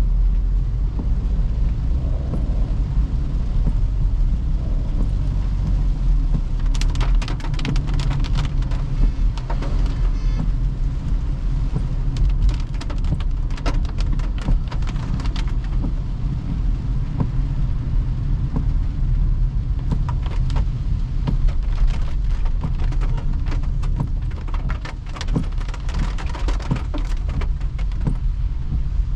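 A Toyota Hyryder hybrid SUV driving on a wet road: a steady low rumble of road and tyre noise, with clusters of sharp raindrop clicks striking the car from about a quarter of the way in and again past the middle.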